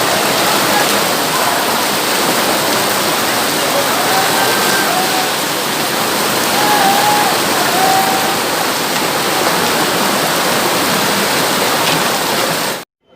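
Loud, steady rush of a violent storm: torrential rain and wind. It cuts off suddenly near the end.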